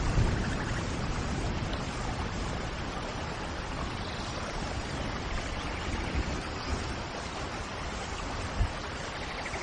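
Steady rain falling, with the tail of a thunder rumble dying away in the first moment and a brief low thump near the end.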